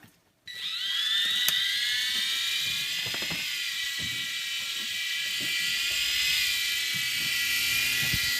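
Small electric motors of a toy RC helicopter spinning up: a whine that rises in pitch about half a second in, then holds as a steady high whine with a click near the start.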